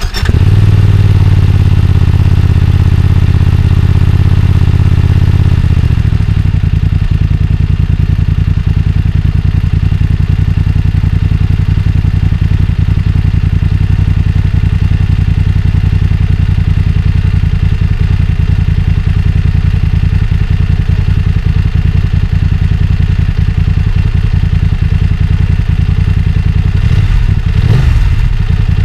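BMW F900 XR's parallel-twin engine idling through its stock exhaust. It runs at a higher idle for about the first six seconds, then settles to a lower, steady idle, with a short rev near the end.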